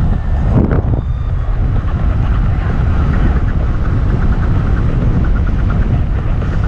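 Electric skateboard riding: steady low rumble of wind on the microphone and wheels on the trail, with faint rapid ticking in the second half.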